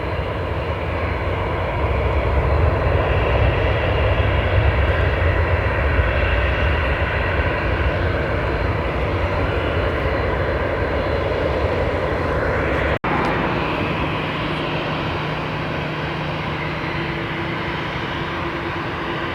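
Airliner engines running steadily close by, with a heavy low rumble through the first half that eases after about 13 seconds. There is a momentary dropout in the sound about 13 seconds in.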